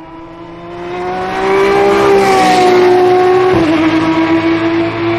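Lamborghini Essenza SCV12's naturally aspirated V12 running at high revs on track. It grows louder over the first two seconds and then holds a steady high note, dipping slightly in pitch about three and a half seconds in.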